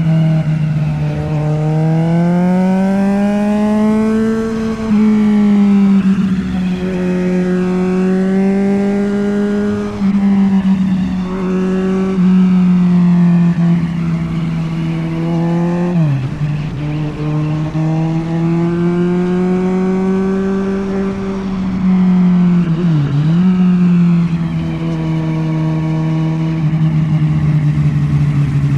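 Kawasaki Z900's inline-four engine running under way at fairly steady revs, its pitch rising and falling gently with the throttle. Twice, around the middle and again later, the pitch drops sharply for a moment and comes straight back up.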